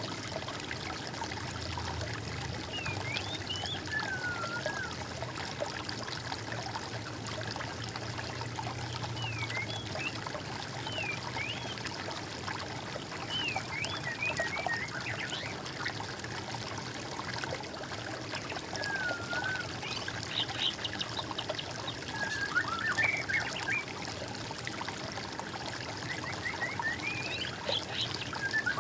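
Water trickling steadily, with short, scattered bird chirps and twittering calls above it, some sliding up or down in pitch.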